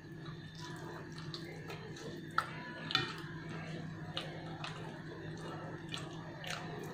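Close-up eating sounds: wet chewing and lip-smacking, a run of small clicks as rice and beef rendang are eaten by hand, with two sharper clicks about two and a half and three seconds in. A steady low hum runs underneath.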